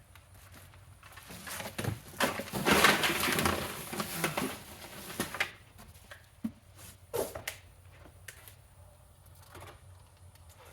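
Handling noise from a vacuum being taken out of its packaging: a few seconds of loud rustling and crinkling, then several sharp clicks and knocks.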